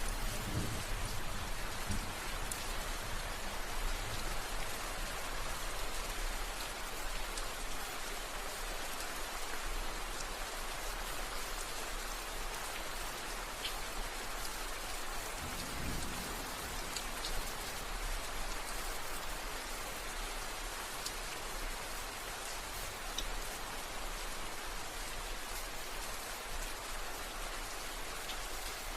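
Steady rain falling on a surface, a dense even hiss with scattered drop ticks. A brief low rumble about halfway through.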